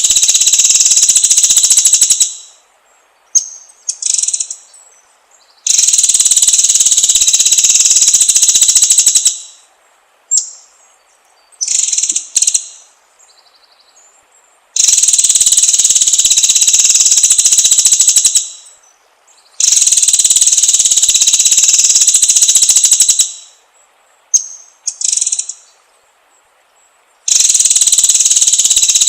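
White-rumped shama bait song: loud, dense, buzzing high-pitched trills of three to four seconds each, repeated about five times. Short sharp calls come in the gaps between them.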